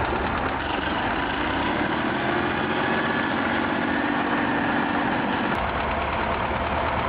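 Tractor diesel engine running steadily, its note rising slowly for a few seconds and then changing about five and a half seconds in.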